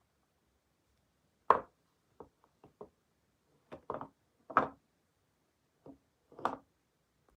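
Soap and its packaging being handled and set down on a hard surface: a series of separate knocks and taps. The loudest come about one and a half seconds in and again around four and a half seconds, with quieter taps between and a last knock near the end.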